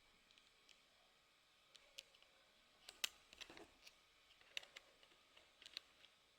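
Faint, irregular ticks of raindrops dripping onto a hard surface, scattered and uneven, with one sharper drop about three seconds in.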